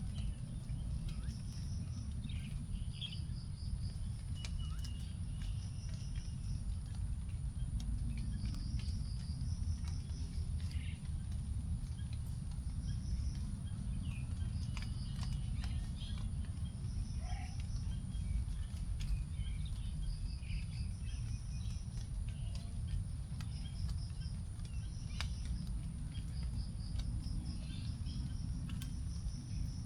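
Forest ambience after rain: a bird repeats short runs of high chirping notes every couple of seconds, and scattered drips of rainwater tick onto leaves. A steady high insect drone and a steady low rumble run underneath.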